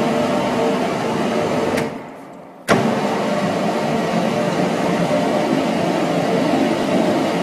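Gluten (seitan) washing machine running with a steady mechanical hum and churning noise. About two seconds in the sound falls away with a click and comes back abruptly with another click a moment later.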